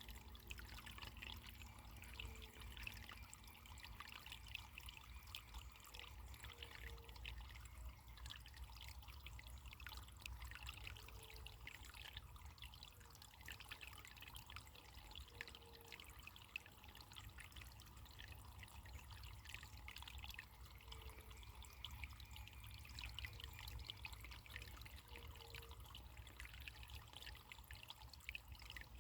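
Running water trickling and splashing in a steady, faint babble. A short low note recurs every four or five seconds.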